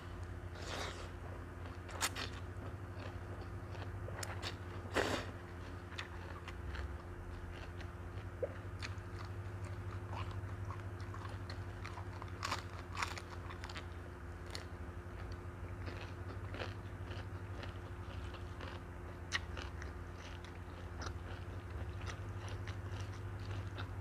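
Close-miked eating of a Thai noodle salad: chewing and biting with many sharp wet mouth clicks and a few louder bites, over a steady low hum.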